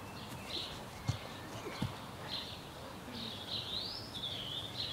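Small birds chirping over and over, with one rising whistled call a little before the end, over steady outdoor background noise. There are two soft thumps, about one and two seconds in.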